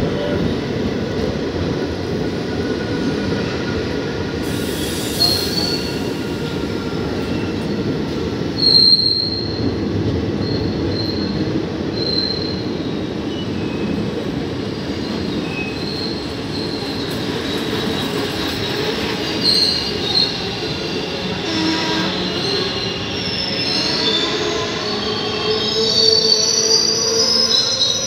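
Indian Railways express train coaches rolling past along the platform: a steady rumble of wheels on rail with scattered high-pitched wheel squeals, which come more often over the last few seconds.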